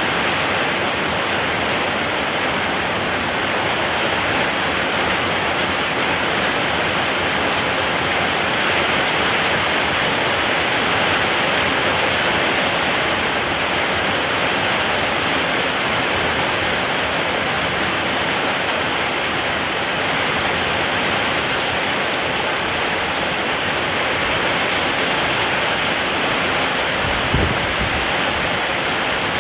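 Rain falling steadily, a dense, even hiss that does not let up, with one brief low thump near the end.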